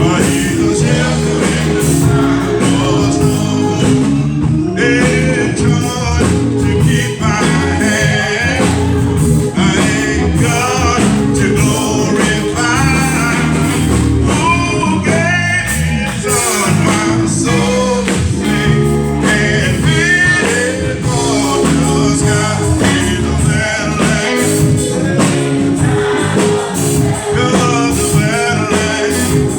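Gospel praise-and-worship music: singers over a band, loud and unbroken.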